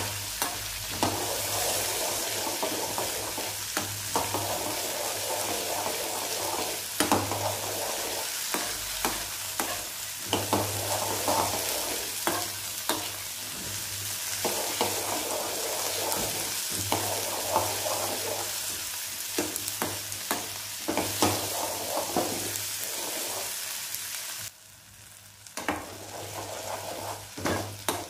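Cubed raw papaya, small onions and tomato frying in oil in an aluminium kadai, with a steady sizzle while a metal ladle stirs and scrapes against the pan. Near the end the sizzle drops away suddenly and only the ladle's clinks and scrapes remain.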